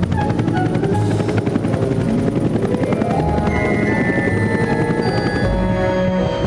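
A helicopter's rotor chopping steadily, a fast even beat, over background music with held notes.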